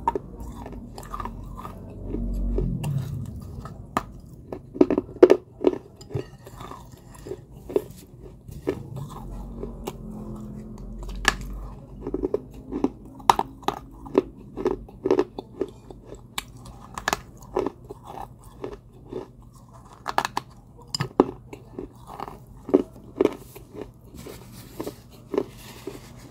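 Close-up crunching and chewing of fired terracotta pot shards: irregular sharp cracks as pieces are bitten off and ground between the teeth.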